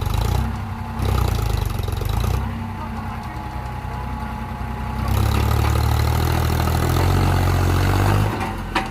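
Diesel tractor engine working hard while pulling a loaded trolley. It grows louder and steadier about halfway through, then eases off suddenly shortly before a sharp click near the end.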